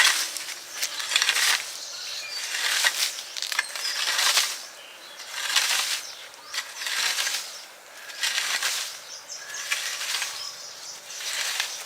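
A digging tool scraping and cutting into soil and debris in regular strokes, roughly one every second and a half, as a shallow groove is trenched.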